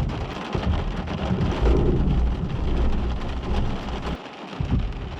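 Rain falling steadily with a long rolling rumble of thunder that peaks about two seconds in and dies away about four seconds in.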